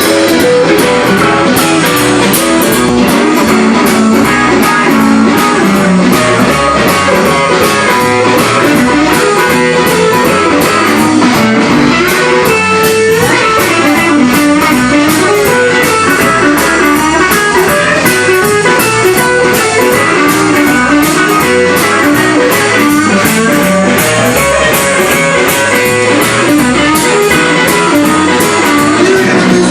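Live blues-rock band music led by an electric guitar, with a steady drum beat underneath.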